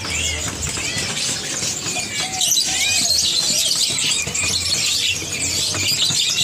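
Many caged songbirds chirping and twittering at once, a dense overlapping chorus of short high calls.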